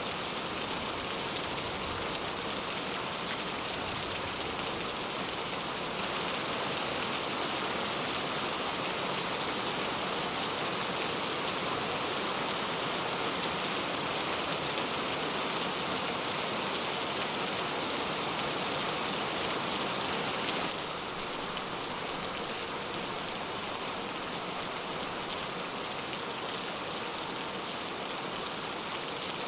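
Steady rain falling. It gets a little louder from about six seconds in, then drops back abruptly about twenty-one seconds in.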